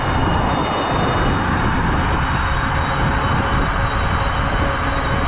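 Bafang BBS-HD mid-drive ebike motor with a steel gear running at high RPM under pedal assist, giving a loud, steady high whine over rushing wind noise.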